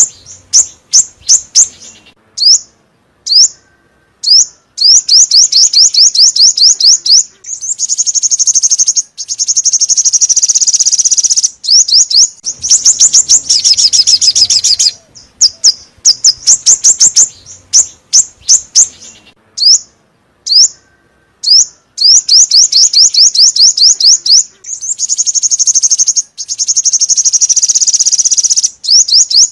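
Five-colour bird (chim 5 màu) song: fast, high trills of rapidly repeated sweeping notes, delivered in bursts of a few seconds with short pauses between them, a call recording used as a lure.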